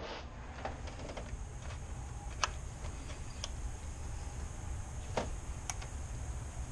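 Scattered light clicks and taps of hands and tools working a small rubber coolant hose off a Mazda Miata's thermostat housing, over a steady low hum.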